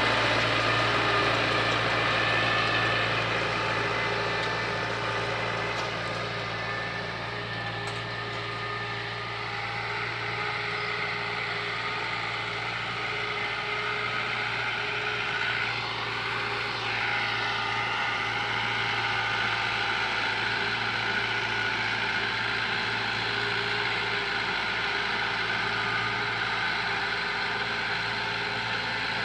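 Tractor engine running steadily under load, pulling a harrow through a ploughed field, with a brief shift in pitch about halfway through.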